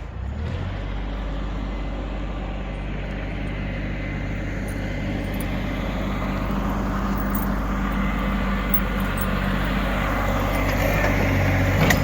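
Old New Holland tractor's engine running at a steady speed while plowing heavy wet snow, growing gradually louder toward the end.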